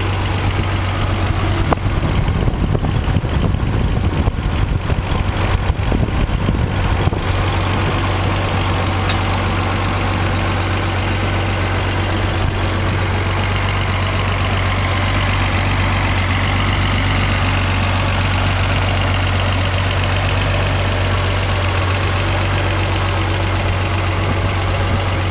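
Turbocharged BMW engine idling steadily and evenly, running sweet.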